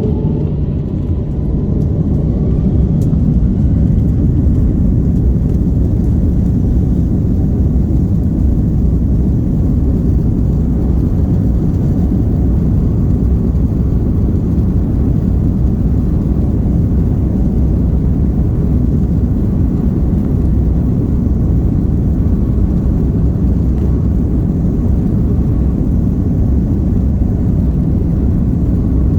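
Steady low rumble of jet engines and airflow heard inside the cabin of an Airbus A330-300 airliner. It rises slightly in the first few seconds, then holds even.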